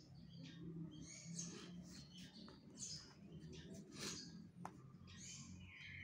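Faint, irregular chirping of small birds in the background over a low steady hum, with a single sharp click about two-thirds of the way through.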